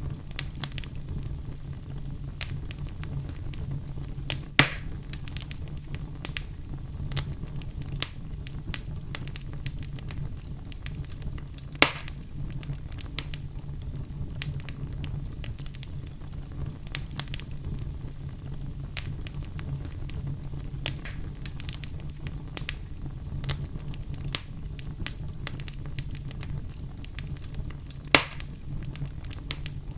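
Wood fire burning in a fireplace, crackling steadily with many small clicks over a low rumble. Three louder pops come about four and a half seconds in, at about twelve seconds, and near the end.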